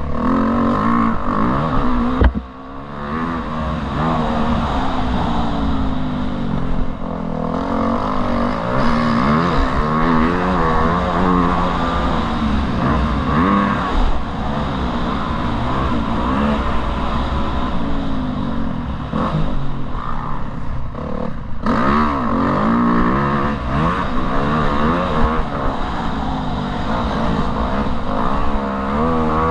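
Motocross dirt bike engine ridden hard, its pitch repeatedly rising and falling as the throttle opens and closes. The engine briefly drops off about two seconds in.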